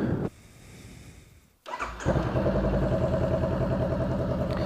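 Motorcycle engine running at a steady idle through a Coffman's exhaust with its baffle removed, coming in about two seconds in and loud in a garage.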